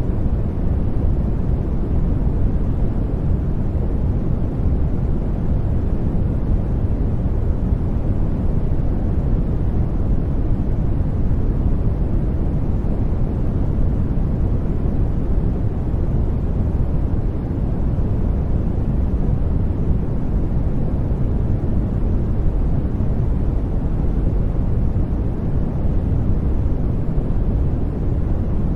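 Steady sleep noise, an unbroken low, deep hiss with its weight in the bass and little treble, unchanging throughout.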